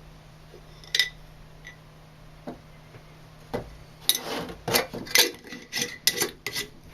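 A coffee scoop clinking and tapping as ground coffee is scooped into the cotton filter: one sharp clink about a second in, a couple of light ticks, then a quick run of taps over the last few seconds.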